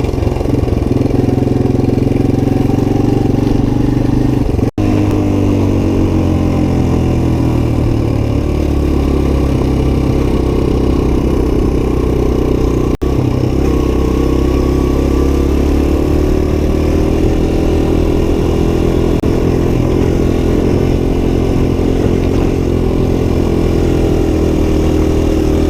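Suzuki DR-Z125 dirt bike's single-cylinder four-stroke engine running under way, its note dipping and climbing with the throttle.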